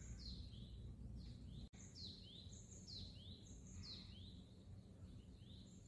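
A songbird singing faintly: a high phrase, a falling note followed by a rising one, repeated over and over about twice a second.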